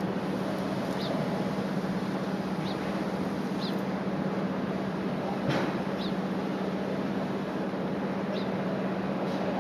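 Strong typhoon wind rushing steadily, with a constant low hum underneath and short high chirps about once a second. A single click about halfway through.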